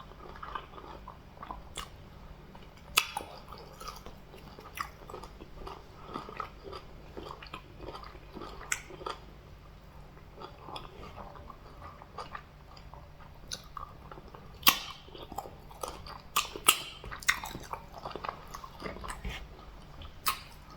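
Close-miked chewing and biting of fufu with soup, fish and meat: wet mouth sounds broken by irregular sharp clicks and crunches. The loudest come about three seconds in and in a cluster near the end.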